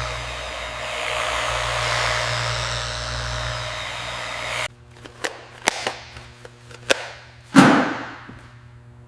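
A steady whirring power tool that cuts off abruptly a little over halfway through. It is followed by a string of sharp clicks and knocks, one much louder knock that rings on briefly, then a faint click near the end.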